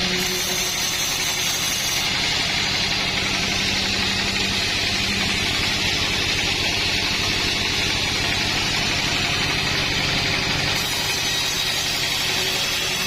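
An engine running steadily at a constant speed, with no rise or fall in pitch.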